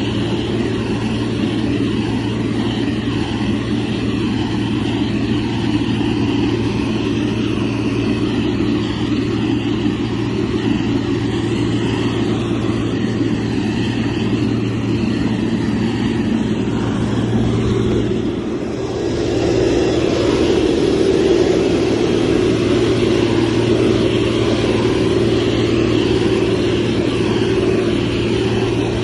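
Heavy construction machine's diesel engine running steadily, with a brief dip in level about eighteen seconds in before it picks up again slightly louder.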